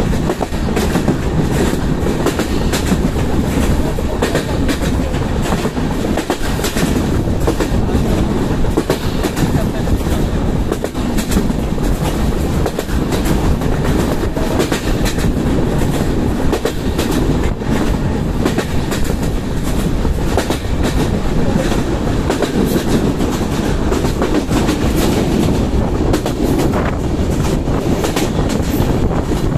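LHB passenger coaches of an express train running at speed, heard from on board: a loud, steady rumble of wheels on the track with rapid clickety-clack over the rail joints.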